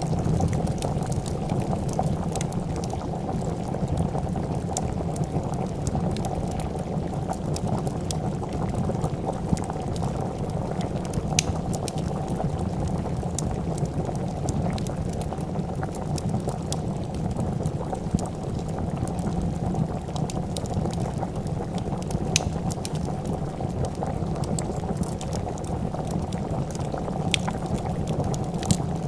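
Pot of soup bubbling at a steady boil, with scattered sharp pops and crackles of a wood fire.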